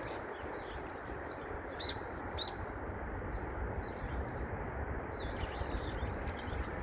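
Small birds chirping in short high notes, two sharp calls about two seconds in and a cluster of chirps near five seconds, over a steady rushing background noise.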